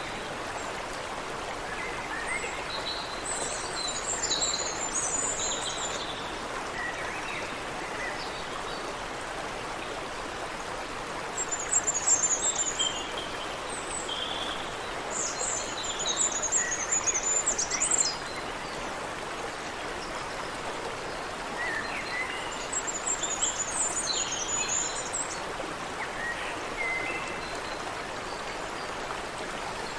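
Water running steadily in a stream, with songbirds twittering over it in several bursts of high, rapid phrases and scattered chirps.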